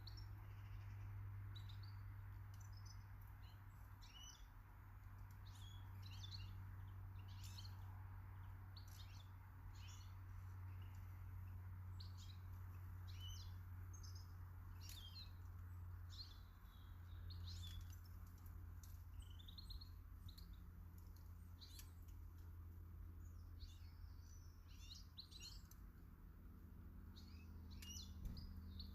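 Garden birds chirping and calling, a dense scatter of short high chirps and brief trills, over a faint low steady hum.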